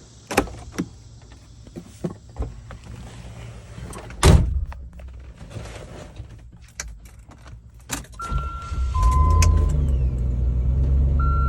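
A 1995 Range Rover Classic's door clicking and shutting with a loud thunk about four seconds in, then a two-note chime and the cold engine starting, its low rumble building up and running steadily near the end while the two-note chime sounds again.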